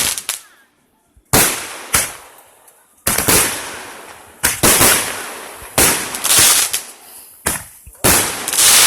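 Fireworks bursting one after another: about eight sharp bangs at irregular gaps, each followed by a fading echo.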